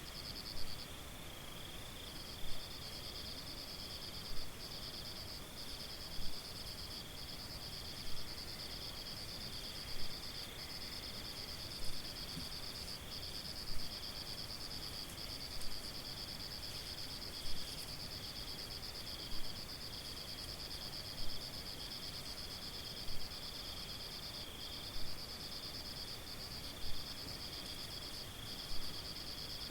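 Crickets or similar insects trilling steadily on two high pitches, with a short, louder note repeating very regularly about every two seconds.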